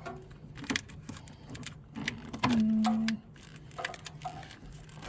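Scattered clicks and clinks of tools and metal parts being handled during an alternator replacement in a car's engine bay. About two and a half seconds in, a short steady hum lasts under a second.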